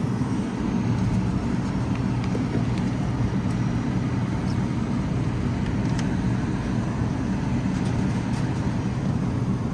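Steady low rumble, like traffic or running machinery, with a faint hiss above it and a few light clicks.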